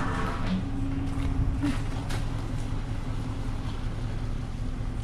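Vehicle engine running with a steady low rumble and a faint steady hum above it.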